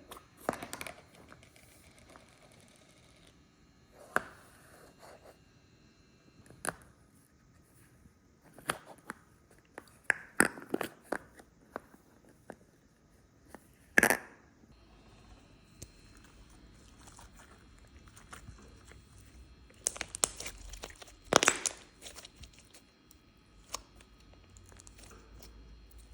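Flare noise putty being squeezed and pulled by hand, giving irregular sticky crackles and sharp pops, with the loudest clusters near the middle and about three quarters of the way through.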